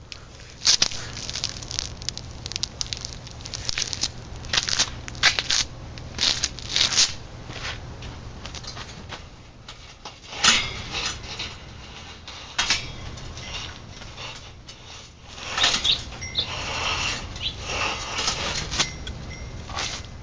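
A bird trapped inside a hollow gazebo pole, scratching and fluttering against the inside in irregular bursts of scrabbling, busiest in a long flurry near the end.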